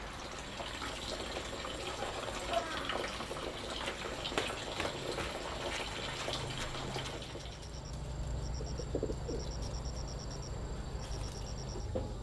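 Scattered light knocks and clicks, then from about seven seconds in a bird chirping in short trains of rapid high notes over a low steady hum.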